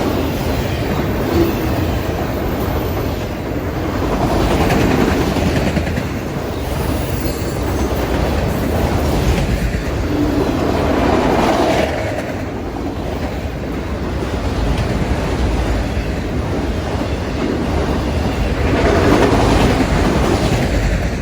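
A freight train of autorack cars rolling past at track speed: steel wheels running on the rails in a continuous loud rolling noise that swells and eases every few seconds as the cars go by.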